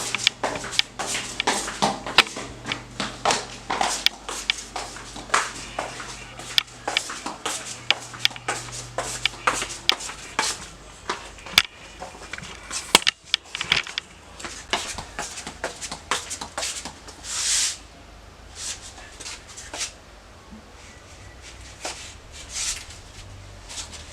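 Clothes and hangers being handled: many quick, irregular clicks and clatters with rustling, thinning out after about twelve seconds. There is a short hiss near the end.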